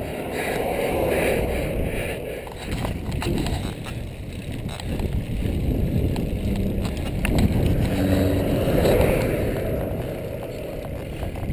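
Wind rushing over the microphone and road noise from a road bicycle being ridden, a steady rumbling noise that swells and fades.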